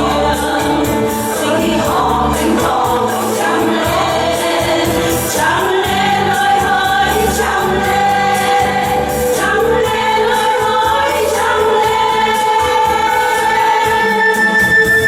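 A group of voices singing together over instrumental accompaniment, with long held notes.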